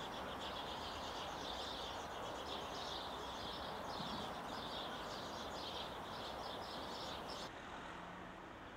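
Small birds chirping in quick, repeated short calls over a steady hiss of outdoor background noise; the chirping stops near the end.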